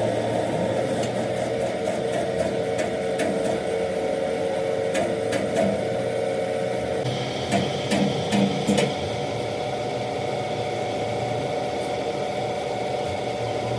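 A machine's motor running steadily, with a handful of short knocks about a third to two-thirds of the way through and a change in its pitch about halfway.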